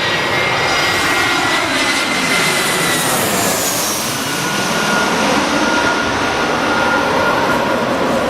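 Jet airliner's engines running loud and steady as the aircraft passes, with a high whine over the roar that drops a little in pitch a few seconds in.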